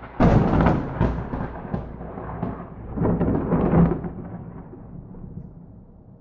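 Thunder from a close lightning strike: a sharp crack just after the start, then a rolling rumble that swells again about three seconds in and slowly fades.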